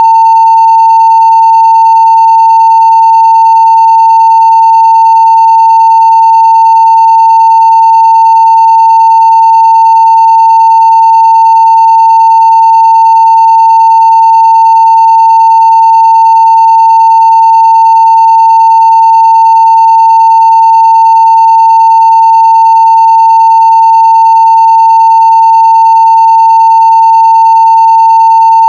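Continuous 900 Hz sine-wave test tone at full scale (0 dB), a single steady pitch with no change in level, carrying faint higher overtones.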